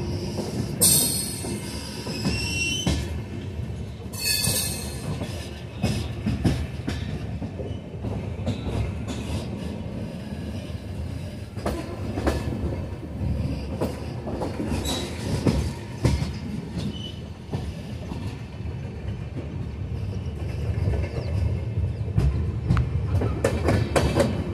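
Antyodaya Express passenger coaches running on the rails, heard from aboard: a steady rumble with irregular wheel clicks and knocks over joints and points, and two high metallic wheel squeals about a second in and again about four seconds in.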